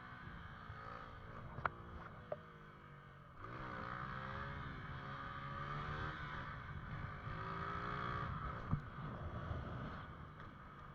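Motorcycle engine running as it is ridden, its pitch rising and falling repeatedly with the throttle, louder from about three and a half seconds in. A few sharp clicks sound near two seconds in and again near nine seconds.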